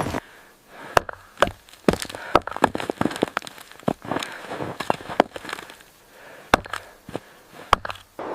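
A run of sharp cracks and knocks at an irregular pace, about eight loud ones among smaller crackles.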